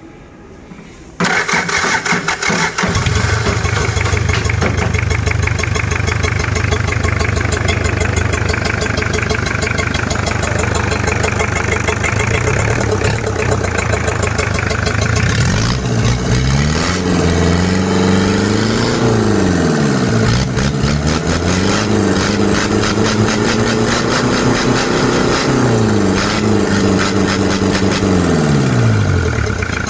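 Toyota 2C four-cylinder diesel engine, out of its vehicle, starting about a second in, cranking briefly and catching, then idling steadily. From about halfway through it is revved up and back down twice, the second time held high for a few seconds before dropping back to idle.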